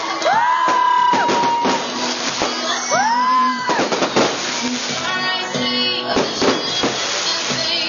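Fireworks going off in a quick series of sharp bangs and crackles, mixed with music and a few whistling tones that rise, hold and fall.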